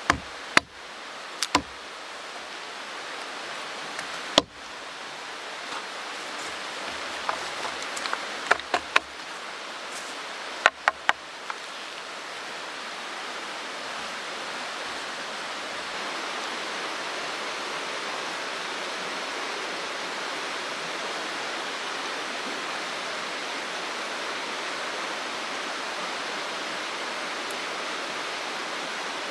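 Mountain stream rushing steadily. A scattering of sharp clicks and knocks sounds over it during the first ten seconds or so, then only the water.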